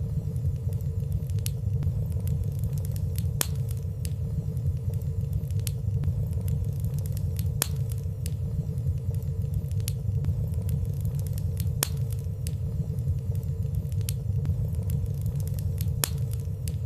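Fire burning in a fireplace: a steady low rumble of flames with light, irregular crackles every second or so and no loud pops.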